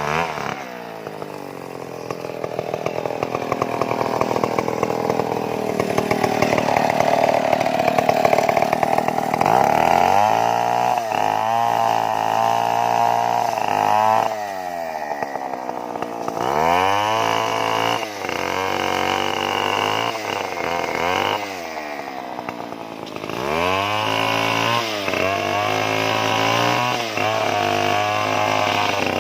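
Stihl two-stroke chainsaw held at high revs for about the first ten seconds, then throttled back to idle and revved up again several times.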